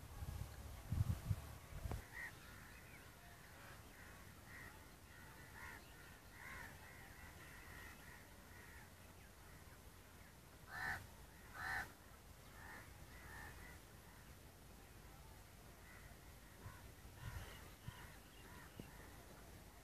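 Faint birds calling, with two louder calls a little under a second apart about eleven seconds in and scattered smaller chirps around them. A few low thumps near the start.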